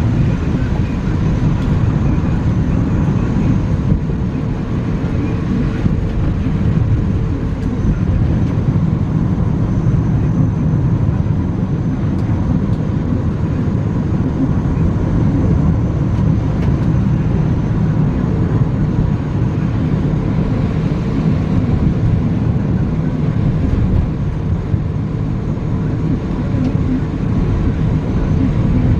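Steady low rumble of a car driving through heavy rain, heard inside the cabin: tyre and road noise on a wet road, with rain on the car.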